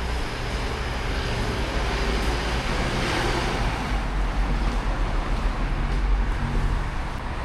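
Street traffic: a car driving past, its engine rumble and tyre noise swelling about halfway through and then easing off.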